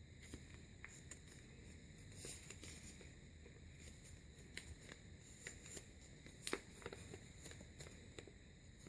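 Faint rustling and crinkling of a sheet of printer paper being folded and creased by hand, a scatter of small clicks with a sharper crackle about six and a half seconds in.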